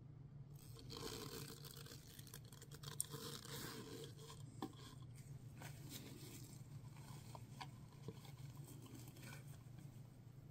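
Faint handling noises: light scraping and rustling with a few soft clicks as objects are moved on a work surface, over a steady low hum.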